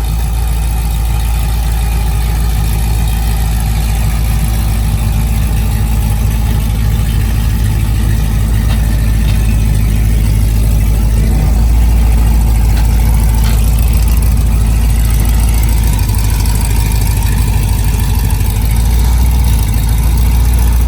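LS V8 engine idling steadily with a deep, even rumble.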